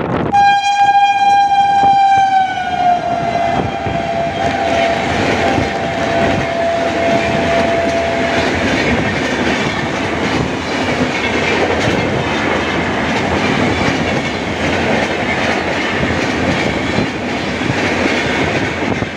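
An Indian Railways electric locomotive sounds one long horn blast as it comes through, the pitch dropping about three seconds in as it passes, then fading. The express's coaches run by at speed with a steady rumble and rail clatter.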